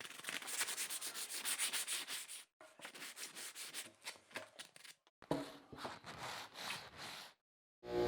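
Rapid back-and-forth hand scrubbing strokes, several a second, in three spells with short pauses between.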